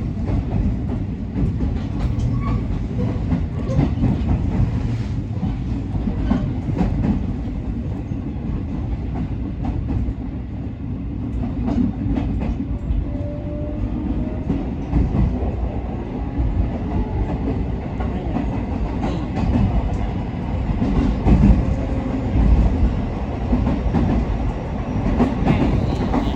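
JR West 207 series electric train running, a steady rumble of wheels on rail with clickety-clack from the rail joints. Faint tones from its Toshiba GTO-VVVF traction motors glide in pitch about halfway through.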